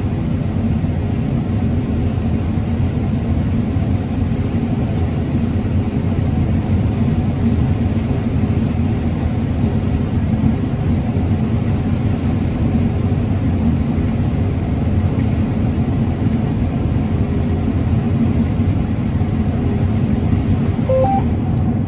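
Combine harvester running steadily while cutting corn: a constant low engine and threshing drone.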